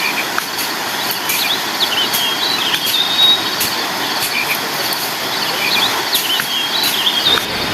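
Steady rush of a nearby waterfall, with faint high chirps repeating over it at night.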